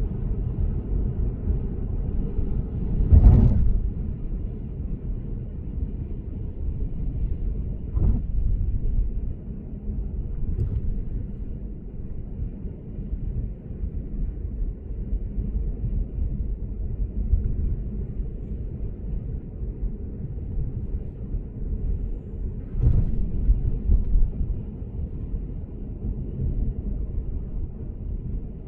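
Steady low road and tyre rumble of a Lexus GS450h cruising on an expressway, heard from inside the car. It is broken by a few short thumps as the tyres hit bumps in the road surface, the loudest about three seconds in, others about eight seconds in and near twenty-three seconds.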